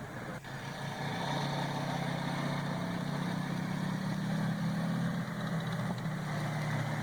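Rebuilt Sherman tank engine running on its final test run, a steady even engine note that comes up louder about a second in. A single sharp click is heard just before that.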